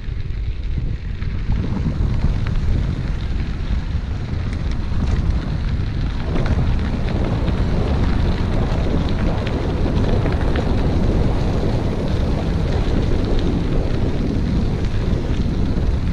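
Wind buffeting the microphone of a moving bicycle: a steady low rumble with a rushing hiss over it, fuller from about six seconds in.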